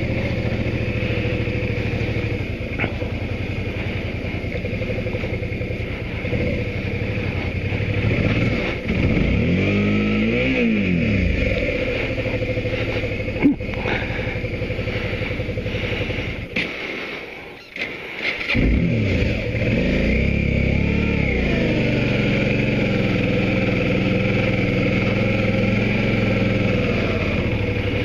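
Motorcycle engine running, with the revs rising and falling about ten seconds in. Near two-thirds of the way through the engine sound drops away for a second or so, then comes back with the revs climbing.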